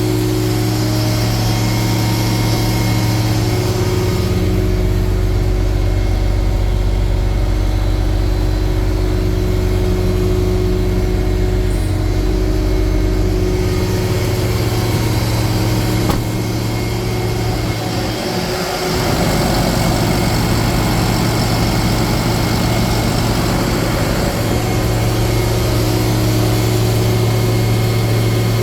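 Cummins diesel engine of a Freightliner M2 asphalt patch truck idling steadily while the patch unit heats up. A deeper low rumble joins it from about four seconds in to about fourteen seconds, and the sound dips briefly at around eighteen seconds.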